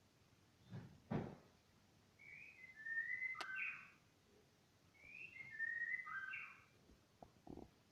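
Repeated short whistled phrases of a few clear, stepping notes, two full phrases a couple of seconds apart, with a couple of short knocks about a second in and near the end.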